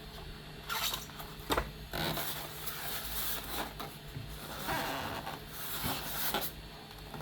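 Packaging rustling and scraping as a die-cast model truck is worked out of its box, with a couple of sharp knocks in the first two seconds.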